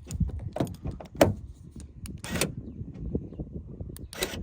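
Repeated clicks and clunks of a BMW E36's driver's door handle and latch being tried, about five in a few seconds, without the door opening: the driver's door latch is broken.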